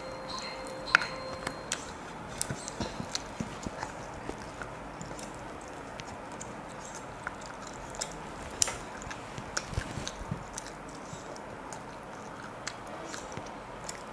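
Close-up mouth sounds of a person eating chicken curry and rice by hand: chewing with wet lip smacks and irregular sharp clicks, over a steady background hiss.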